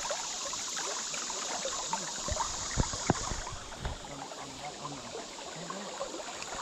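River water flowing around a kayak as a steady rushing hiss. A few sharp knocks or clicks come about two to three seconds in.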